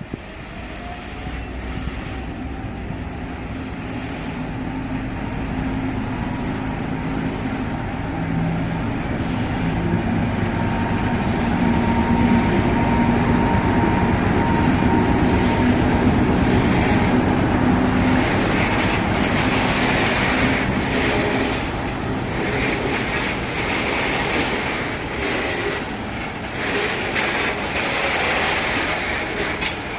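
A freight train passes. The locomotive's steady engine hum grows louder to a peak about halfway through, then the wagons roll by with wheel noise and sharp clicks over the rail joints near the end.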